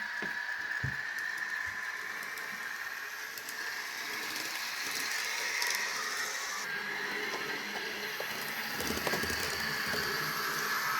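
Sound-chipped N gauge Class 158 model running on the layout: its ESU V5 decoder plays a diesel unit sound through a tiny speaker, with a few light clicks. The sound is a steady mix of tones that slowly drift up and down in pitch, over a hiss.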